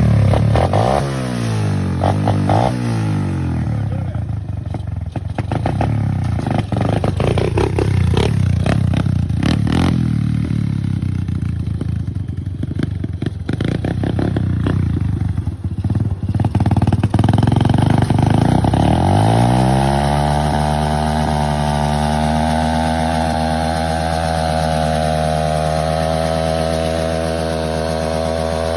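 Small single-cylinder motorbike engine revving in quick blips, then running unevenly with clattering for several seconds. About two-thirds of the way in it revs up and holds a steady high pitch.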